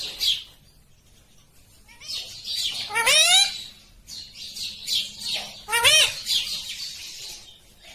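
Green ringneck parakeet calling: rough high chattering with two loud, harsh calls that rise steeply in pitch, about three seconds apart.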